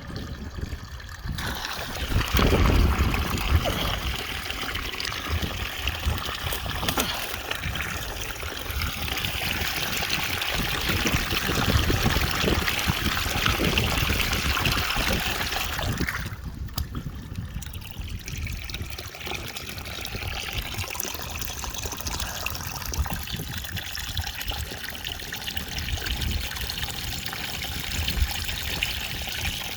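Water from a sump pump's discharge trickling and pouring out through a drain, continuous, with a short lull just past the middle.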